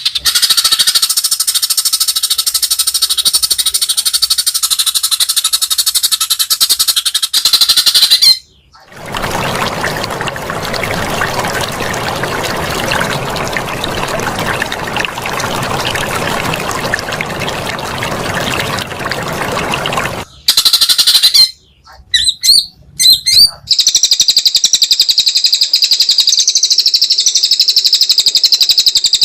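Recorded songbird song spliced with abrupt cuts. First comes a dense high warbling song, then a long loud hiss-like noisy stretch covering all pitches. After a few choppy breaks, a steady high rapid song runs on.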